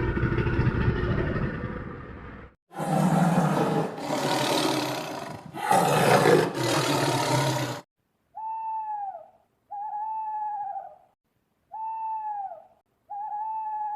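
Animal calls: a run of loud, rough roar-like calls, then four short hooting notes, each arching up and down in pitch and spaced about a second and a half apart.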